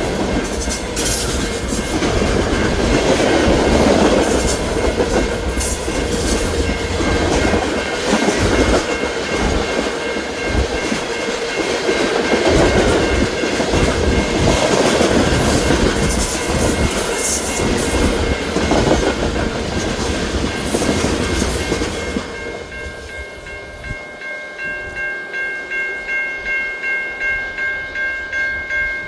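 Norfolk Southern train's cars rolling past, a steady rumble with wheels clacking over the rail joints, which falls away about three-quarters through. Then a ringing tone pulsing about twice a second comes up.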